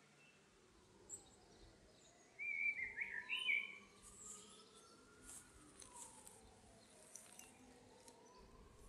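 A bird chirping briefly, a quick run of high chirps about two and a half seconds in, over a faint background with a tone slowly rising and falling. A few faint short ticks follow in the second half.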